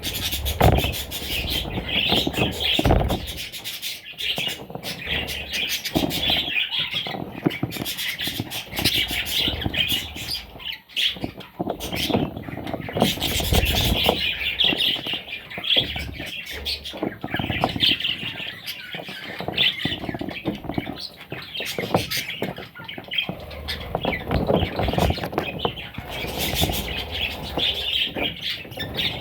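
Budgerigars chirping and chattering without pause, with scattered knocks and rustles mixed in.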